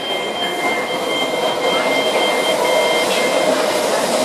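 Southern Class 377 electric train standing at the platform with a steady electrical hum from its equipment. A high two-note tone sounds on and off until about three seconds in.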